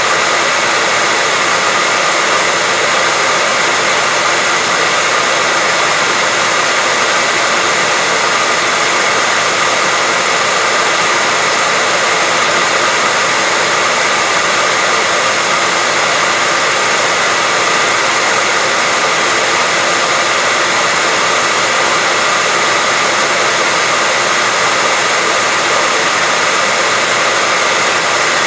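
Hair dryer running steadily without a break: a constant rush of blown air with a steady high whine on top.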